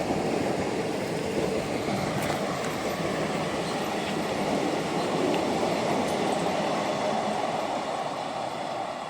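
Diesel-hauled passenger train rolling past on the track: a steady, dense rumble of wheels and coaches with a few faint clicks, easing off slightly near the end.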